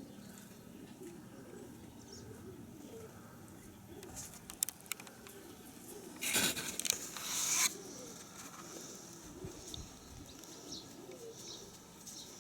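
Nikolaev pigeons cooing over and over, with a loud burst of wing flapping about six seconds in that lasts about a second and a half.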